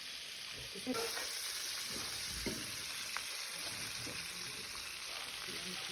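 Egg-and-flour-coated chicken pieces frying in hot oil, sizzling with a steady hiss.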